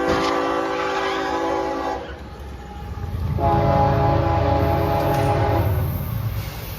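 Locomotive horn sounding a long chord that cuts off about two seconds in, then a second blast a little later, over the rumble of a passing train.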